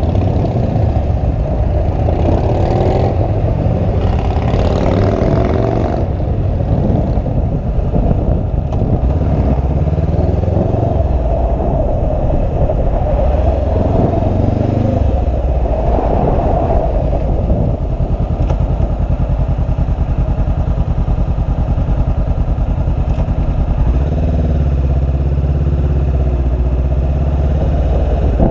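Motorcycle engine running steadily while riding, its note shifting up and down a few times.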